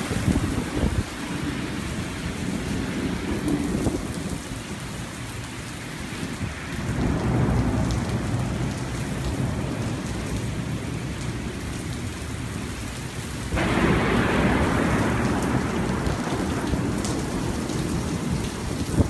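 Steady rain with thunder rumbling, swelling and easing. About two-thirds of the way in, a louder peal of thunder starts suddenly and keeps going.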